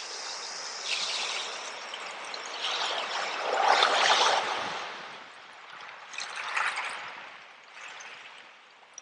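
Small ocean waves washing onto a shore, coming in several surges with the largest about four seconds in.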